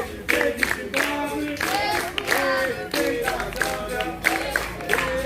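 A group of voices singing together unaccompanied, with rhythmic hand clapping keeping a steady beat.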